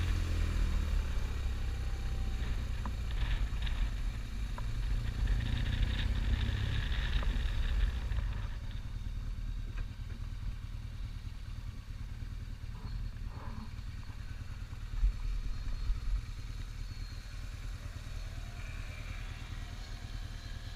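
Motorcycle engine running while riding, with wind and road noise; louder for the first several seconds, then settling to a quieter, steady run.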